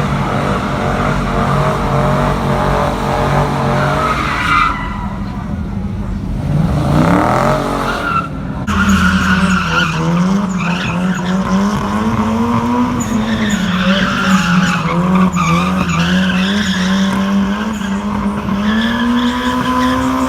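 Car engine revved hard and held high, its pitch rising and falling several times, while the tyres skid and squeal on the pavement.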